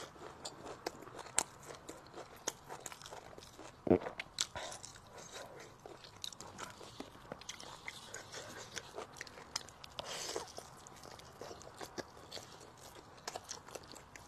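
A person chewing and eating close to the microphone: a steady run of small wet mouth clicks and bites, with one louder sudden sound about four seconds in.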